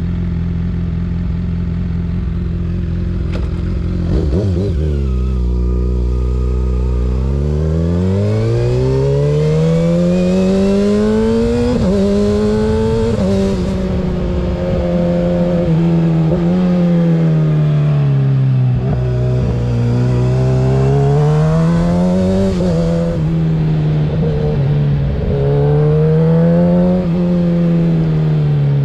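2024 Kawasaki ZX-6R 636's inline-four engine through a Graves exhaust: steady at low revs for the first few seconds, then climbing in pitch from about seven seconds in. The revs then rise and fall repeatedly as the bike accelerates and eases off.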